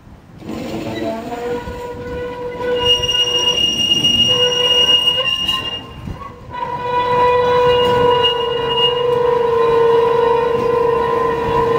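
Steel wheels of the historic HTw 30 tram squealing against the rails, a steady high squeal of several tones that breaks off briefly about six seconds in and then resumes louder.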